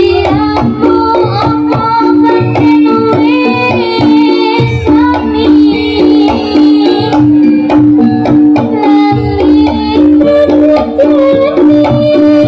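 Live jaranan ensemble music: hand drums keep a busy rhythm under a melodic instrument line and a steady held low note.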